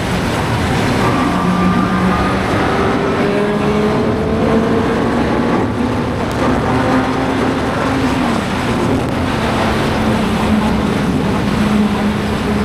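Suzuki GSX-R750 motorcycle's inline-four engine under way, its note rising steadily through long pulls and dropping back between them, under loud wind rush.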